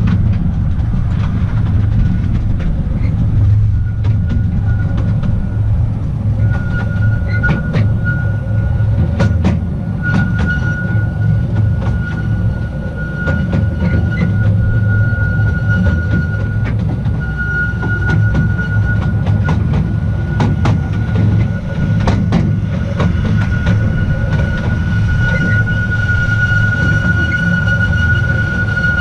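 The Artouste little train rolling along its narrow-gauge track: a steady low rumble with scattered clicks from the wheels and rail joints. A thin, steady high-pitched wheel squeal comes in a few seconds in and grows stronger toward the end.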